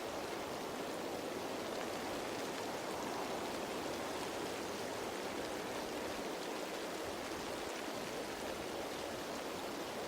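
Steady rain pattering on foliage, a dense even hiss with fine drop detail and no single drops standing out.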